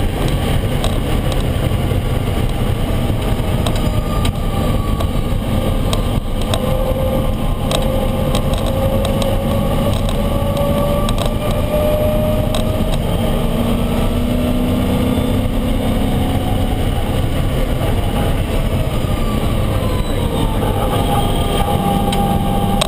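Ford Mustang road race car running at speed on track, its engine note climbing and dropping slowly over a dense rumble of wind and road noise.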